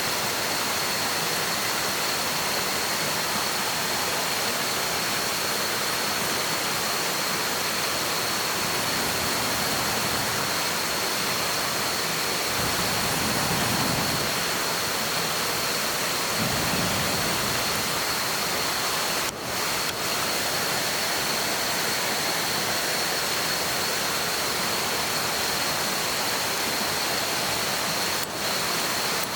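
A5 wagyu steak sizzling on a cast-iron griddle over a campfire: a steady, even hiss, with a couple of soft low rumbles about halfway through.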